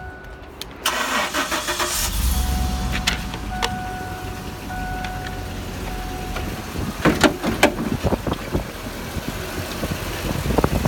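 GMC dump truck engine cranking over about a second in, catching about two seconds in, then settling into a steady idle. The engine idles quietly and smoothly.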